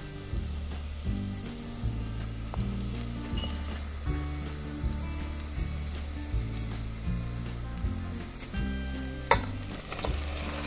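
Chopped onions and green capsicum sizzling as they fry in a steel pot while a steel spoon stirs them, with one sharp knock near the end. Soft background music plays underneath.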